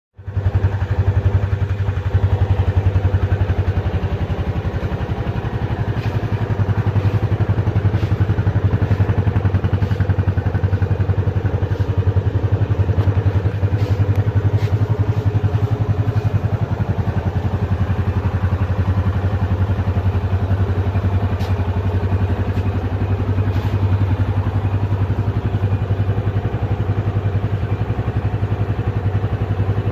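Single-cylinder motorcycle engine running steadily at idle through its stock exhaust, a steady low even beat.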